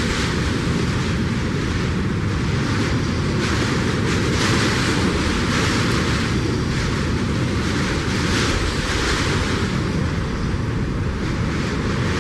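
Strong gusty wind blowing over the microphone: a loud, steady rush, swelling in repeated surges every second or two.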